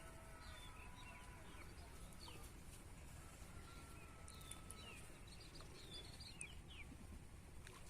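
Faint bird chirps and short whistled calls scattered throughout, over a low steady background hum of outdoor ambience.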